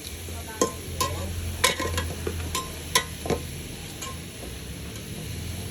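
A metal utensil clinking and scraping against cookware, about seven sharp knocks in the first three and a half seconds, some with a short ring, over a steady low hum.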